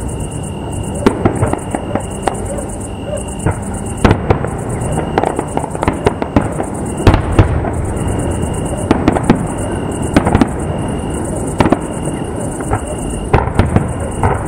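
A fireworks display: aerial shells bursting in many loud bangs at irregular intervals over a continuous rumble, with the heaviest bangs about four seconds in and around seven seconds in.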